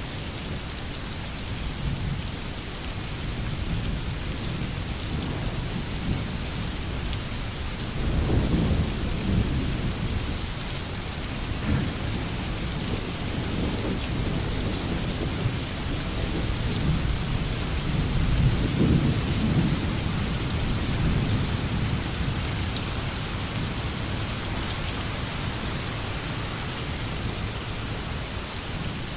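Steady rain with low rolls of distant thunder, the rumbling swelling about eight seconds in and again a little past the middle.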